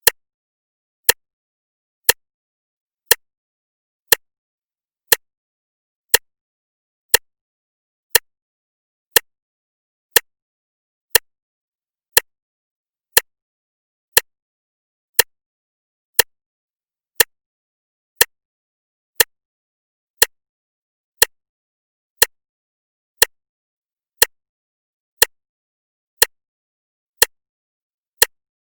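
Clock ticking steadily, one sharp tick a second, with nothing heard between the ticks.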